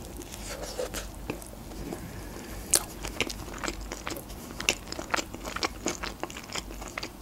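Close-miked chewing of a mouthful of KFC chicken burger (breaded fried chicken in a soft bun), with many small irregular clicks from the mouth, the sharpest about three seconds in.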